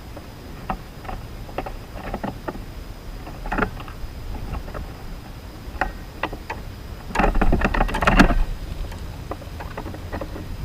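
Irregular taps and clicks at a backyard bird feeder, with a denser flurry of knocks and rattling about seven seconds in, over a steady outdoor hiss.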